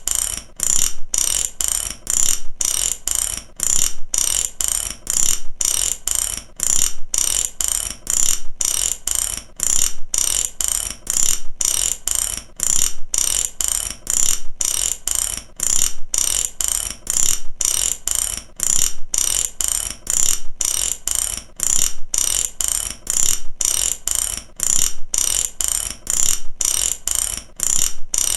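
Mechanic's ratchet wrench clicking: its pawl snapping over the gear teeth in quick runs of sharp metallic clicks, repeated steadily with brief pauses between strokes.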